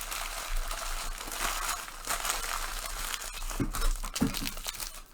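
Plastic packaging crinkling and rustling as trading-card boxes and packs are handled and opened, with a few soft knocks about three and a half to four seconds in.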